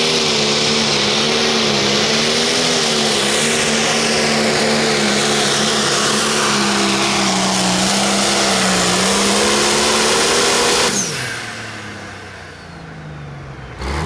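John Deere 5020 pulling tractor's diesel engine running at full power under load, its pitch wavering and sagging slightly. About eleven seconds in it winds down sharply with a falling pitch as the run ends.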